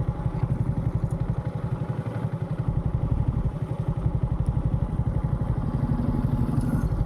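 Motorcycle engine running at low revs with a steady, fast, even pulse.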